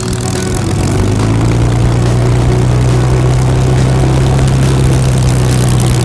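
Propeller aircraft engine, most likely the Spitfire's Rolls-Royce Merlin V12, running with a steady low drone that steps up slightly about a second in.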